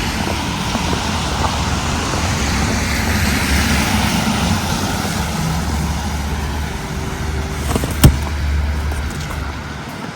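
Street traffic going by, a vehicle's hiss and low rumble swelling and then fading away. A single sharp knock about eight seconds in.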